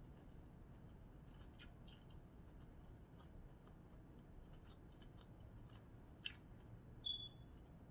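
Faint sounds of a person eating seafood: quiet chewing with scattered small clicks, a sharper click about six seconds in and a brief high squeak just after it.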